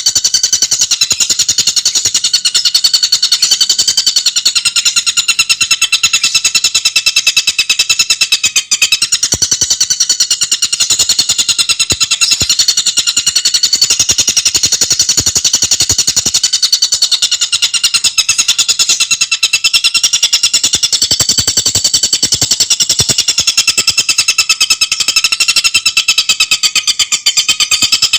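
Tengkek buto bird singing a rapid, continuous, high-pitched trill of very fast, closely packed notes without a break.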